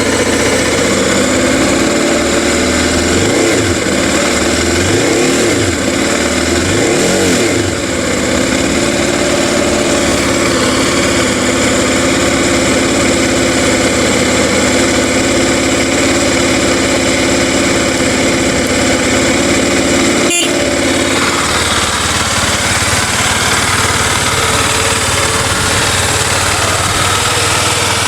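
An engine running steadily, its pitch swinging up and down a few times in the first several seconds. A sharp click comes about twenty seconds in, and the engine sound changes after it.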